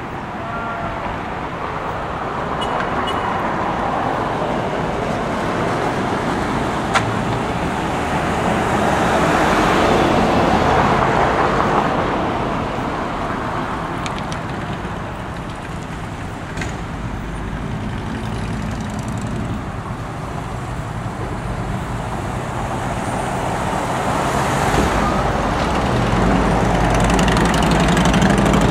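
Road traffic noise, vehicles passing, the rush swelling and fading twice, with a single sharp click about seven seconds in.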